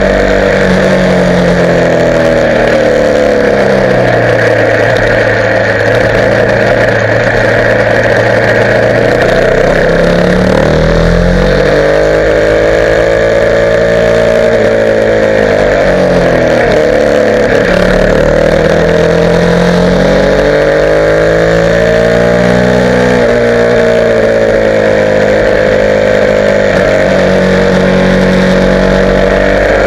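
Motorcycle engine running under way, loud throughout, its pitch falling and rising again several times as the bike slows, speeds up and changes gear.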